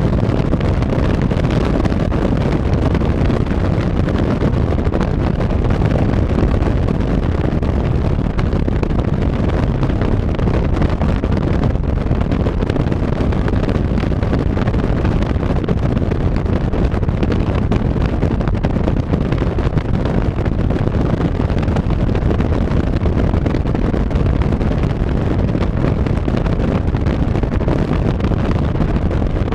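Steady wind rushing over the microphone, mixed with road and engine noise, recorded from a moving vehicle.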